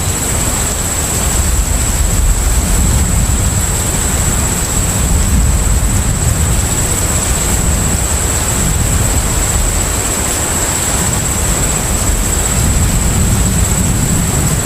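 Container ship's engine and hull running at sea: a steady low rumble under an even wash of sea and wind noise, with a faint steady high whine.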